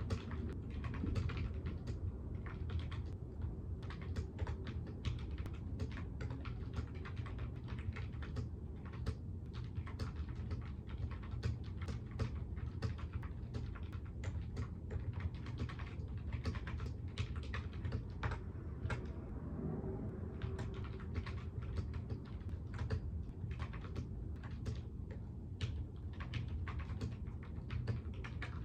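Someone typing steadily on a computer keyboard: a fast, uneven run of key clicks over a low steady hum.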